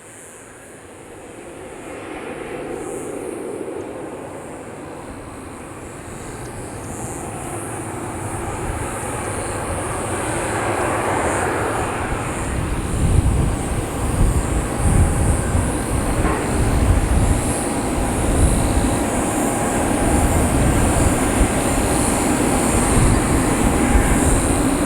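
Bombardier Dash 8 Q400 turboprop airliner on final approach, its engine and propeller sound growing steadily louder, with a deep rumble building through the second half.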